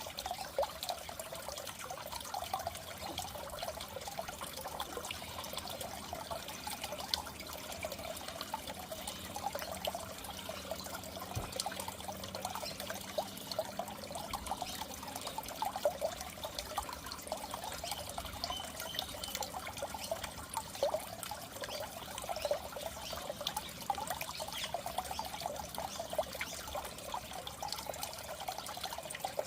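Water trickling steadily, with a dense run of small bubbling splashes.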